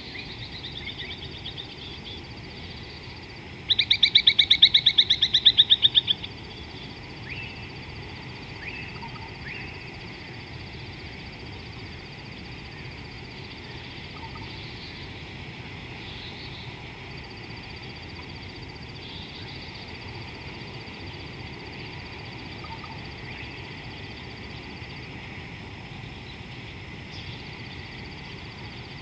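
A bird calls loudly in a rapid run of pulsed notes for about two and a half seconds, starting about four seconds in. Short scattered bird chirps follow, over a steady high-pitched whine.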